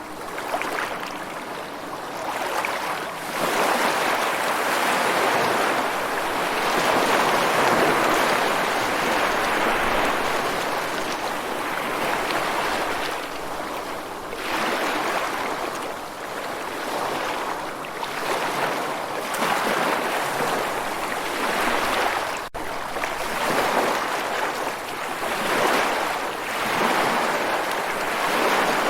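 Ocean waves washing in, a steady rushing surf that swells and ebbs every few seconds, with no music over it.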